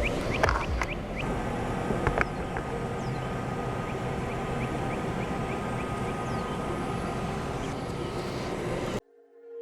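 Camera drone's propellers humming steadily over open water, with a few light knocks in the first couple of seconds. The sound cuts off suddenly near the end.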